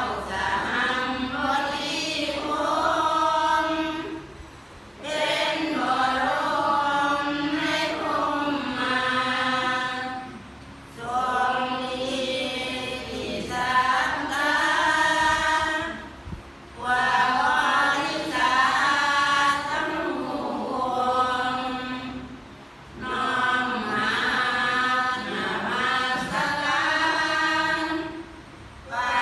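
A group of voices chanting together in unison, Buddhist temple chanting. It comes in phrases of about five to six seconds, each followed by a brief pause for breath, about five phrases in all.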